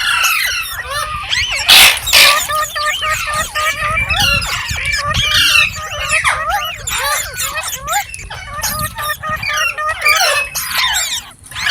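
Ringneck parrots chattering: rapid, overlapping chirps and whistles, with one loud, harsh squawk about two seconds in.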